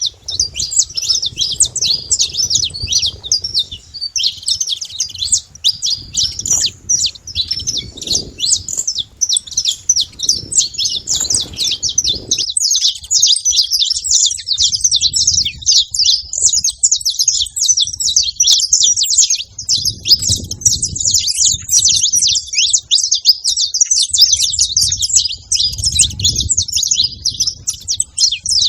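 A flock of saffron finches chirping and calling without pause, many short calls overlapping into a dense chorus. A faint low rumble comes and goes underneath.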